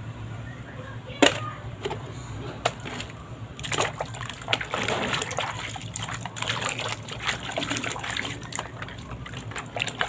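Water splashing and sloshing in irregular strokes as a muddy toy is washed by hand, with a sharper splash about a second in.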